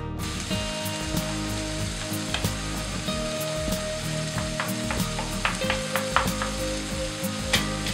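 Blended tomato sizzling as it hits hot oil in a non-stick frying pan, a steady sizzle throughout. A spatula stirs it, scraping and tapping the pan a few times in the second half.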